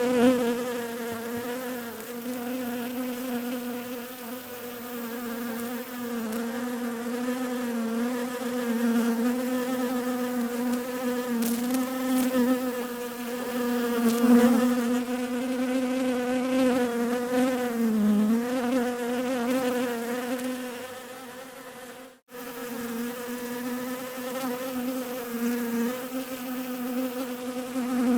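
Bees buzzing in a steady drone that wavers slightly in pitch. It cuts out for an instant about three-quarters of the way through, then carries on.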